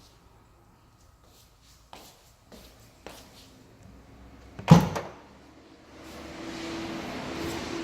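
A few light clicks and knocks, then a single loud thump a little past halfway, followed by a steady hiss with a low hum.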